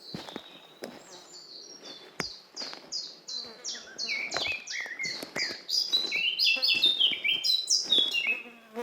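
A songbird singing a long, rapid run of short, down-slurred high notes, several a second, getting louder toward the end, with a lower series of notes joining about halfway through. A few soft footsteps on the forest path underneath.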